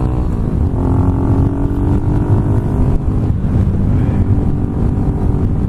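Kawasaki Z125's single-cylinder engine running under way through a homemade exhaust with a packed muffler, with wind noise on the helmet microphone. The engine note dips just after the start, holds steady, then drops lower past the middle.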